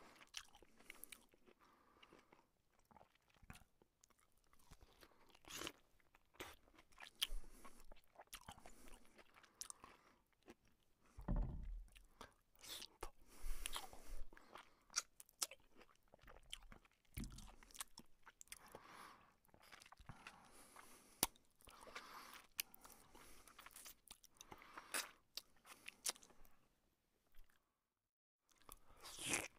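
Close-miked eating sounds: a man chewing and biting luchi, the fried puffed flatbread, with irregular crunches and mouth clicks, and a brief silent gap near the end.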